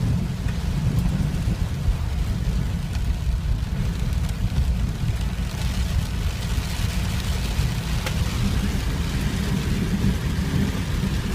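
Heavy rain beating on a travelling vehicle over a steady low rumble from the vehicle, with the rain growing stronger in the second half.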